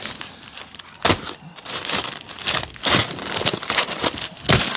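Plastic packing bags crinkling and rustling as items are handled and packed, with sharper crinkles about a second in, around three seconds in, and loudest near the end.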